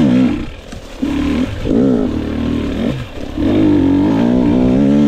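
GasGas EX 250 two-stroke dirt bike engine revving up and falling back several times under throttle, then held at steady high revs from a little past halfway.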